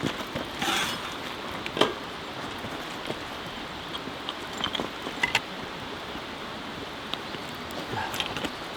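Creek water running steadily over rocks, with a few small clicks and knocks here and there.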